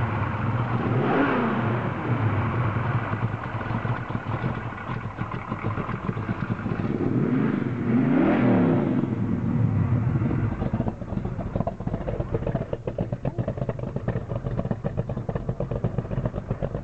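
The 427 stroker V8 of a 1969 Ford Mustang Mach 1 revved twice, pitch rising and falling each time, then settling to an idle with an even pulsing beat from the exhaust.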